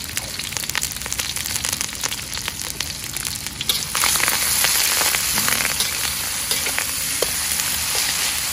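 Spice paste of lemongrass, chillies, shallots and lime leaves sizzling in hot oil in a wok. About four seconds in the sizzle gets louder as a metal spatula starts stirring it, with light clicks of the spatula against the wok.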